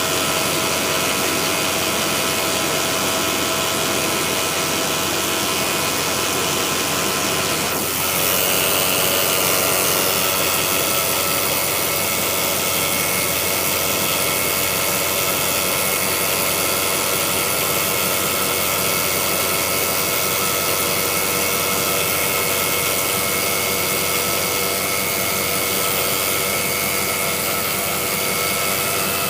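Jeep Grand Cherokee (WJ) engine running after a cold start, with a steady rattle from around the 545RFE transmission bell housing. The rattle is a cold-start noise of unknown cause. About eight seconds in there is a brief falling tone, after which the sound gets slightly louder.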